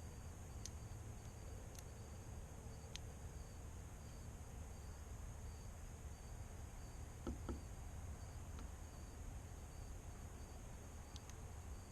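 Faint evening insect chorus, with crickets giving a steady high-pitched trill and a softer chirp pulsing about every half second, over a low rumble. Two soft knocks come close together about seven seconds in.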